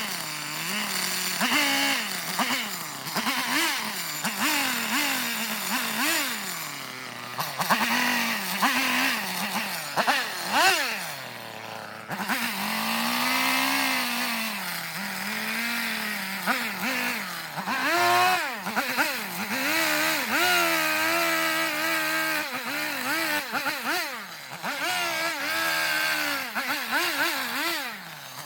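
Carving chainsaw revving up and down over and over as it cuts into a block of eastern red cedar, its pitch rising and dropping every second or so with the throttle and the load.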